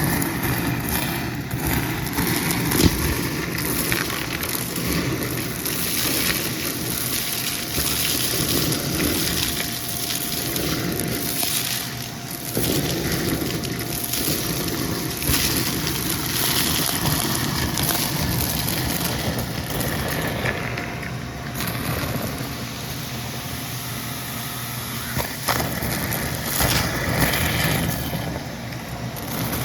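Vacuum cleaner running and sucking up crunchy debris: a steady motor and airflow noise broken by irregular crackling crunches.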